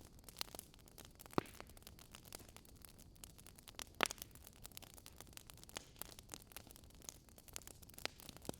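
Wood fire crackling: a soft steady hiss with irregular small snaps and pops from burning logs, two sharper pops about a second and a half in and about four seconds in.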